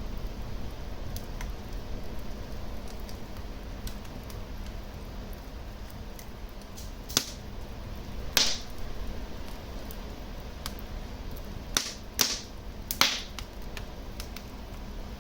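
Wood fire burning in a fireplace with a steady low rumble of flames and small ticks, broken by several loud sharp pops and cracks of burning logs, a cluster of them in the last few seconds.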